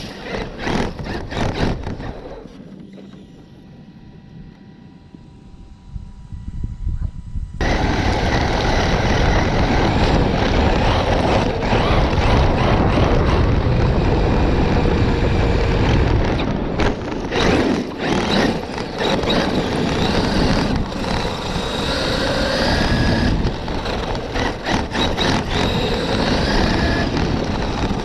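Electric radio-controlled truck driving, a loud rush of tyre and wind noise with a faint whining motor that rises and falls. The noise cuts in suddenly about eight seconds in, after a quieter stretch.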